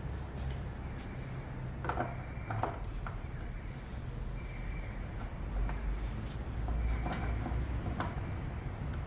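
Small handling noises from work on the motorcycle: a few light knocks and some rubbing over a low steady hum.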